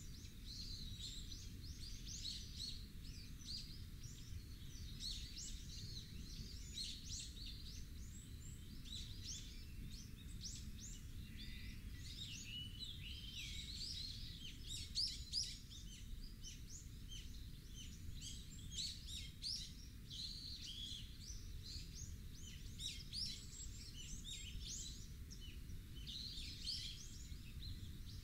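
Many small birds chirping and trilling continuously in quick high notes, over a steady low rumble.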